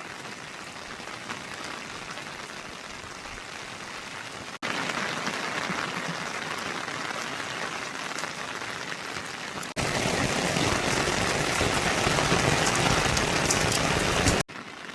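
Steady rain falling, an even hiss heard in three edited segments that get louder at each sudden cut, about a third and two thirds of the way in, before dropping back near the end.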